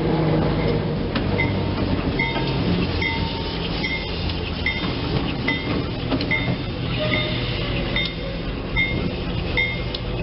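Train rumbling steadily, with a bell dinging evenly a little more than once a second.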